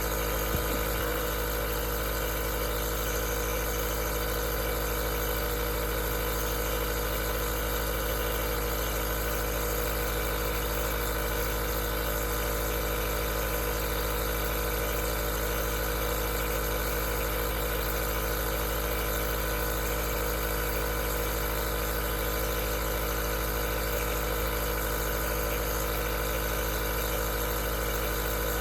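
Aerosol nebulizer's small compressor running steadily: an even motor hum with a constant hiss of air.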